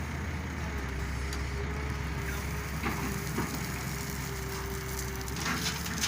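Heavy diesel machinery engine running steadily, with a faint steady whine over the low engine note and a couple of light clicks around three seconds in.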